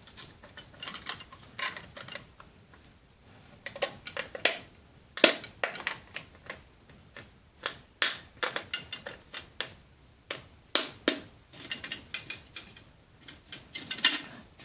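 Irregular small clicks, taps and knocks of thin tin-can metal and wire being handled, as the displacer wire of a homemade tin-can Stirling engine is fitted through its hole, with a few sharper knocks among them.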